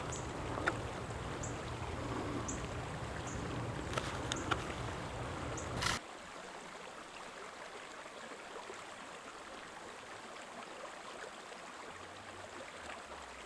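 Creek water running steadily. In the first half there are footstep clicks and low rumble on the microphone, which stop suddenly about halfway through, leaving only the water.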